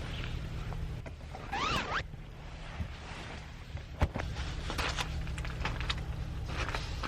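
A cat's short meow, rising and falling, about one and a half seconds in, over a steady low hum. A sharp click follows near the middle, then rustling and handling noises.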